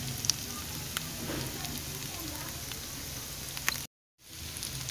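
Cubed potatoes and onions sizzling in ghee in a frying pan: a steady crackling hiss with scattered small pops. The sound cuts out for a moment near the end, then carries on.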